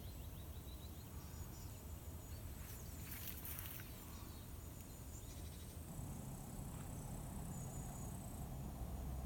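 Faint outdoor evening ambience: insects chirping thinly over a low steady rumble, with a brief rustle about three seconds in.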